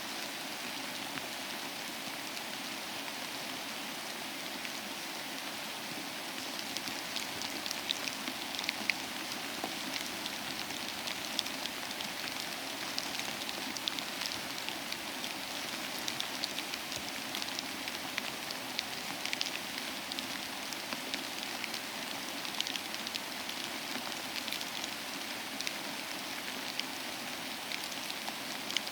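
Steady rain falling, an even hiss, with individual drops ticking sharply and irregularly against a surface from about six seconds in.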